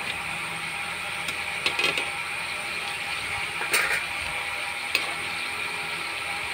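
Momos frying in hot oil in a metal kadhai, a steady sizzle, with a few clinks and scrapes of a metal slotted spoon and spatula against the pan as the dumplings are turned. The sharpest clink comes a little before the middle.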